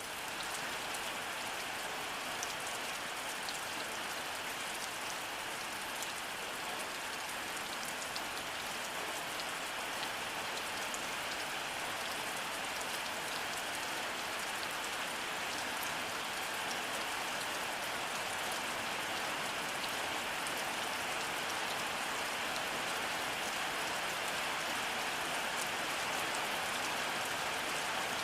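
Steady heavy rainfall: a dense, even hiss sprinkled with sharp individual drop ticks. It fades in at the very start, then holds steady.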